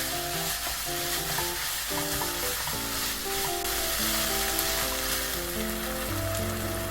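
Food sizzling and frying in a hot pan while it is stirred, a steady hiss, with soft background music of held notes underneath.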